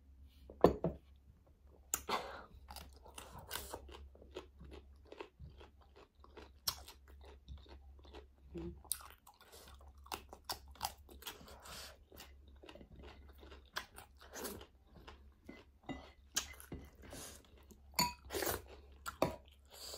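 A person chewing and crunching food with frequent crisp bites, among them bites into raw cucumber slices. A single sharp knock stands out just under a second in.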